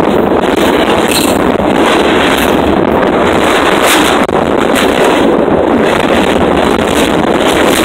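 Freight cars rolling directly over a microphone lying between the rails: a loud, steady roar of steel wheels on rail with wind rushing over the microphone, broken by a few brief louder clatters as wheel trucks pass.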